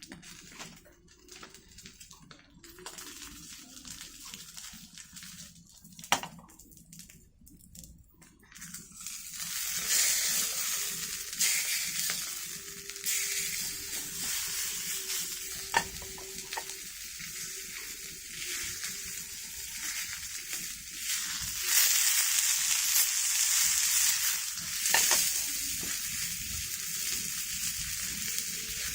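Food sizzling in a frying pan over a campfire: quiet at first with a few clicks, then a loud, steady sizzle from about nine seconds in.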